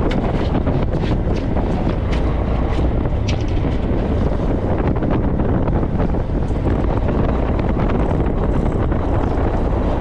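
Wind buffeting the microphone over the steady low rumble of a fishing boat running through the water.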